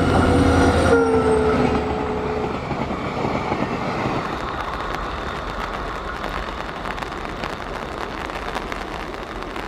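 Train passing on the line, sounding its horn: the horn's pitch drops as the locomotive goes by and the horn stops a couple of seconds in. The rumble of the train running past then slowly fades under rain.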